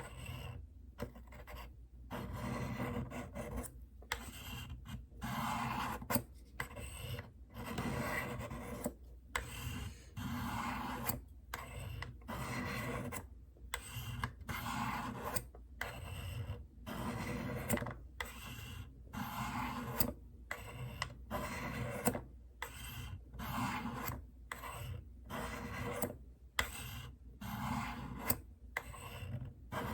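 Knife blade drawn again and again down the fine ceramic rods of a Spyderco Tri-Angle Sharpmaker, steel scraping on ceramic in a steady series of strokes about one a second, with short pauses between them. This is the fine-grit honing stage on the rods' corners, refining the edge after the coarse stones raised a burr.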